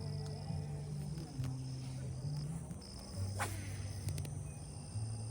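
Insects trilling in a steady high tone that breaks off and resumes every second or two, with faint low music notes stepping from pitch to pitch underneath.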